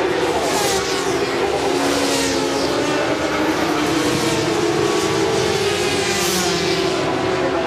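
400 cc supersport racing motorcycles running at high revs, several passing close one after another with the engine pitch falling as each goes by.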